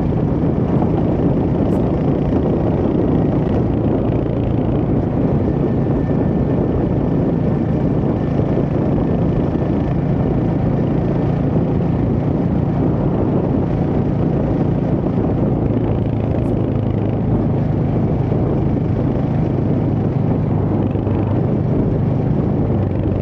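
Royal Enfield Hunter 350's single-cylinder engine running steadily while riding at an even speed, under a constant rush of wind and road noise.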